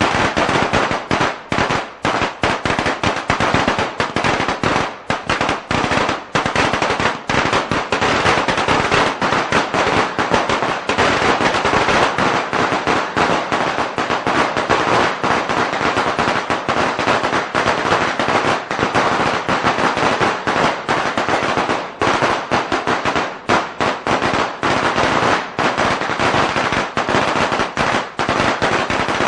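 A string of firecrackers going off in a dense, unbroken run of sharp cracks.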